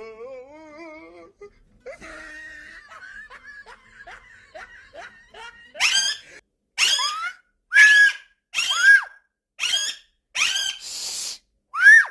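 Pet parrot calls: a wavering warble, then a run of laugh-like chattering, then loud high-pitched screeches about once a second from about six seconds in.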